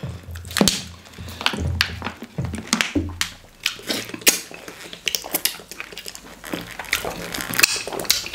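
Close-up eating sounds: a piece of goat meat on the bone being chewed and gnawed, with many short, wet, irregular mouth clicks and smacks.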